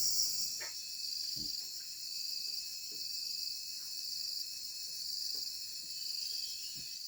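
Steady, high-pitched insect chorus, with a pulsing call repeating about once a second on top and a few faint soft knocks.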